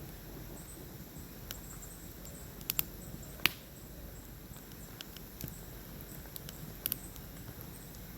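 Cookware and utensils being handled while preparing food: scattered sharp clicks and knocks, some in quick pairs, the loudest about three and a half seconds in, over a low steady hum.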